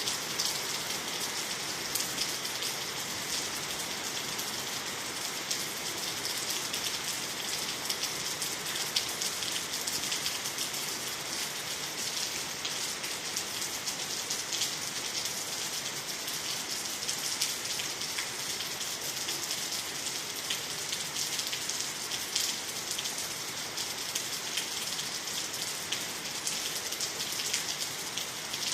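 Steady rain falling on water, trees and the ground, with many close raindrops ticking through an even hiss.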